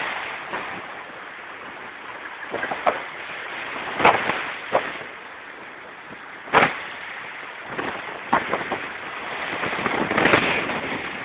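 Sea surf washing up the beach, a steady rushing that swells and eases, with several sharp knocks on the microphone about four, six and a half, eight and ten seconds in.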